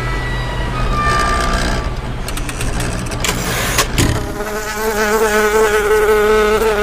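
A steady low hum with a few short high tones, broken by a brief noisy burst about four seconds in. Then a loud, steady buzzing like a fly's wings begins, its pitch wavering slightly.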